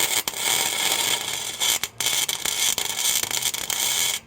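Wire-feed welder arc crackling and hissing steadily as it builds weld into a nut over a broken-off exhaust manifold bolt. There is a brief break just before the middle, and the arc cuts off shortly before the end.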